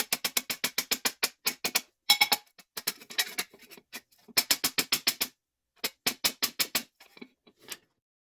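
Hammer tapping sheet steel in quick runs of strikes, about seven or eight a second, with short pauses between runs, shaping a new patch panel.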